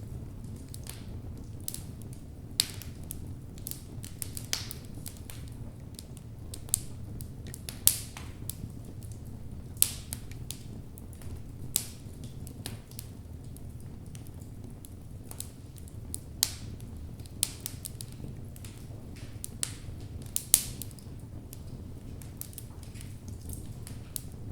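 Wood logs burning in a fireplace: a steady low rumble of the flames with irregular crackles and pops, a few sharp loud snaps among them.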